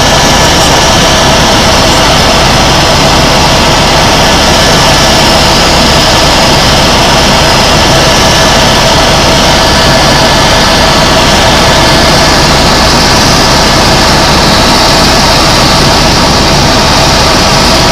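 Tour helicopter in flight heard from inside the cabin: loud, steady engine and rotor noise with a thin, steady whine above it.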